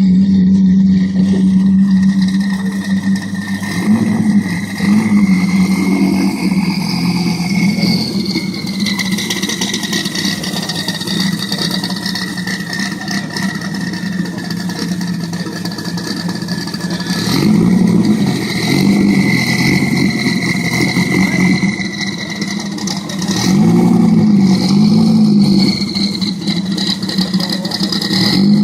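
Modified supercar engine idling, blipped with short revs now and then: a few quick revs about four to six seconds in, then more near the middle and toward the end. A steady high-pitched whine runs alongside.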